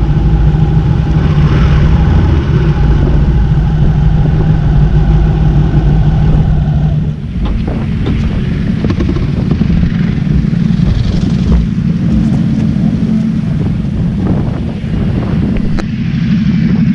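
Sport motorcycle engine running at a steady note, with heavy wind on the microphone. About seven seconds in the engine note drops away and the sound turns rougher, with scattered knocks.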